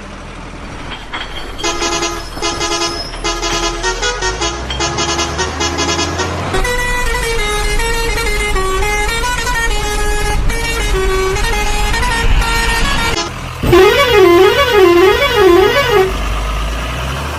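Electronic musical truck horn: rapid beeping tones for about five seconds, then a stepping melody, then a fast rising-and-falling siren-like warble for about two seconds near the end, over a steady low hum.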